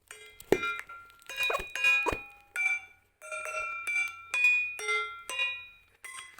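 A tuned drum played in separate struck notes, about two to three a second with short pauses, each note ringing with a clear, bell-like pitch and fading; a few strokes carry a low thump.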